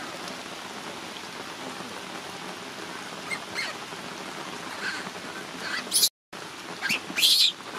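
Steady rain falling on wet ground, with a baby monkey's short high-pitched cries several times in the second half, the loudest near the end. The sound drops out for a moment just after the middle.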